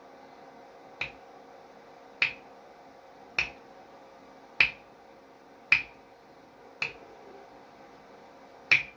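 Finger snaps, one about every second, with one longer pause near the end: a body sound made with the fingers.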